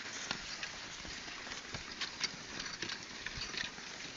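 An ox-drawn plough at work in a field: oxen and plough moving through the soil, with scattered, irregular clicks and crunches over a steady outdoor hiss.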